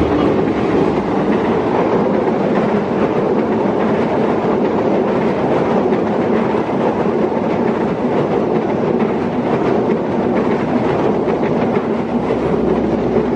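A train passing close by: steady, loud running noise of the wheels on the rails.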